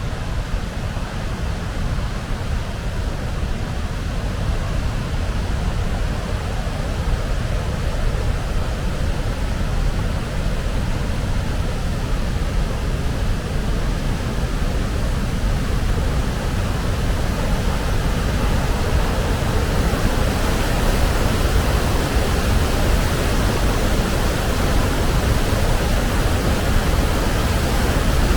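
Large waterfall's steady roar of rushing water, growing a little louder and brighter in the second half.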